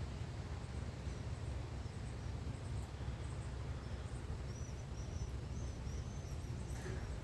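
Songbirds chirping, a run of short high chirps in the second half, over a steady low rumble of outdoor background noise.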